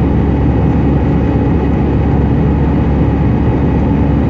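Cabin noise inside an Airbus A320 in flight: a steady low rumble from its CFM56 engines and the airflow, with a faint steady hum.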